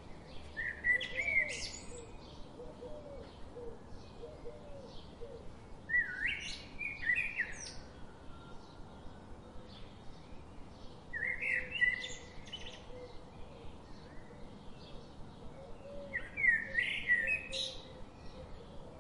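Birdsong: a songbird sings a short chirping phrase four times, about every five seconds, over faint steady background noise with small regular ticks.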